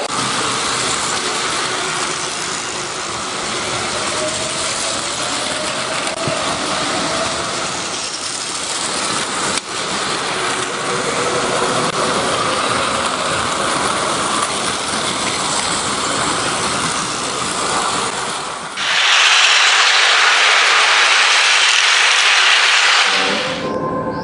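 Electric train running, with a faint rising motor whine in the first few seconds. About nineteen seconds in, a loud steady hiss takes over for about four seconds and then cuts off suddenly.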